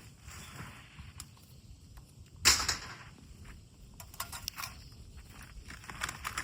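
Rustling and handling noises with one sharp knock about two and a half seconds in, then a run of small clicks.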